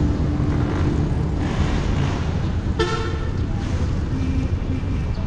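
Wind and road noise on a bicycle-mounted action camera, with motor traffic passing, and a short vehicle horn toot just under three seconds in.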